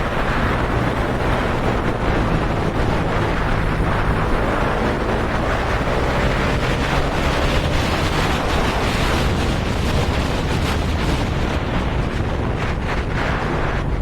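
Hero Hunk 250R motorcycle being ridden: the engine runs steadily under heavy wind noise buffeting the microphone.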